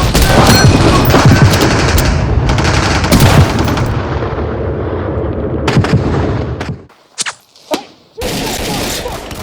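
Battle sound effects: dense gunfire with machine-gun bursts, which stops suddenly about seven seconds in, leaving a couple of single shots and a last burst of noise near the end.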